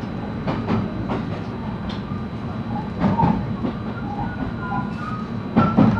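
JR West 223-series electric train running, heard from inside the car: a steady rumble with the wheels clacking over rail joints in quick pairs, three times, the pair near the end the loudest, with a faint whine from the motors.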